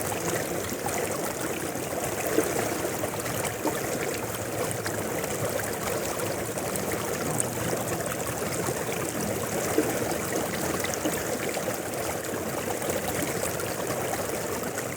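River water flowing steadily, with a couple of brief louder splashes.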